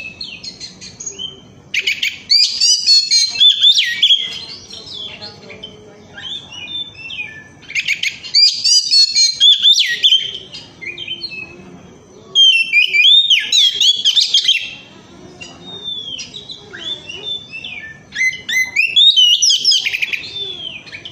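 Oriental magpie-robin singing: four loud, fast phrases of varied whistles and trills a few seconds apart, with softer chirps in between.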